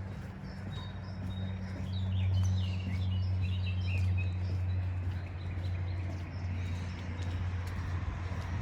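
A steady low mechanical hum that swells a little after about two seconds, with birds chirping briefly about two to three seconds in.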